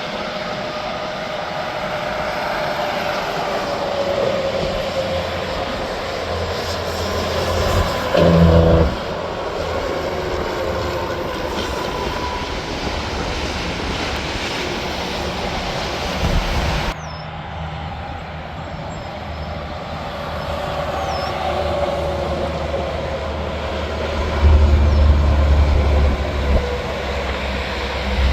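Interstate highway traffic: semi-trucks and cars passing at speed, with steady tyre roar and falling pitch as each one goes by. A louder low rumble comes twice, as a heavy truck passes close.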